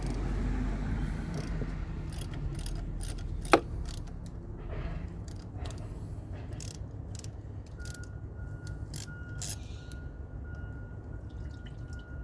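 A string of light clicks and taps over a low rumble, with one sharp ringing clink about three and a half seconds in. A faint steady high tone comes in past the middle.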